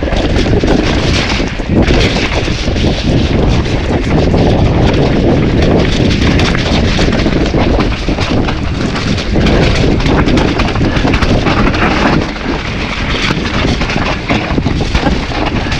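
Wind buffeting a GoPro's microphone at speed on a mountain bike descent, a loud, continuous rumble. Through it run the quick knocks and rattles of a Nukeproof Giga mountain bike and its tyres over rough, wet trail.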